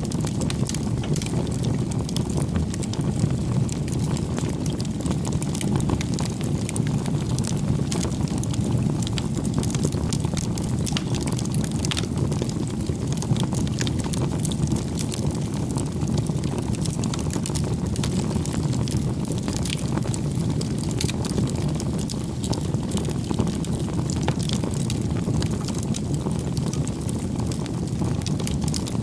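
Crackling wood fire: a steady low rush of burning with many small, sharp crackles and pops scattered through it.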